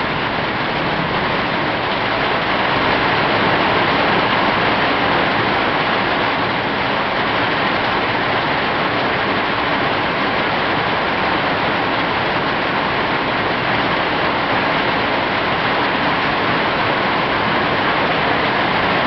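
Rain falling steadily on a tin roof, heard from beneath it: a dense, even hiss with no letup.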